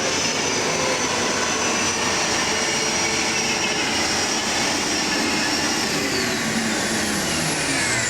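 Modified pulling tractor's engine running hard, a steady loud din with a high-pitched whine; from about six seconds in the whine falls in pitch as the engine winds down.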